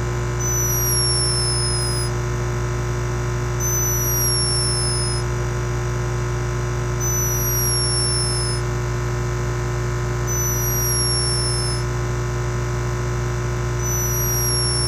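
Steady electronic hum with a short, high, falling chirp that repeats about every three seconds.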